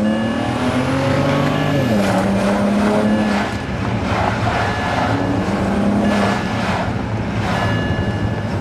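BMW 335i turbocharged inline-six pulling under acceleration, its pitch rising, then dropping at a gear change a little under two seconds in before it runs on at steadier revs, with tyre and road noise throughout.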